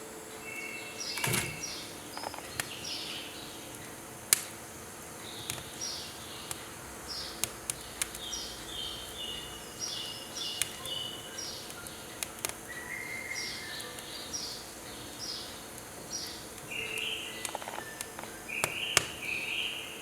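Small birds chirping in quick repeated phrases, with firewood in a wood stove crackling and popping now and then, some pops sharp and loud.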